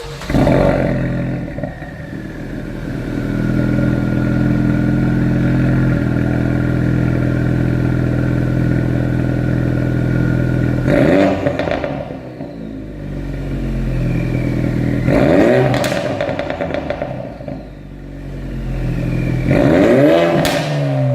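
Ford Focus RS's 2.3-litre turbocharged four-cylinder heard through a Scorpion 3-inch valved, non-resonated cat-back exhaust. A short blip opens it, then the engine holds a steady note for several seconds before three rev blips, each rising and falling, with crackles and pops on the overrun.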